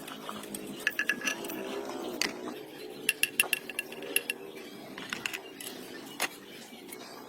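Small metal parts and tools clinking and tapping against each other during hand work on an engine, in irregular clusters of ringing clicks over a steady low hum.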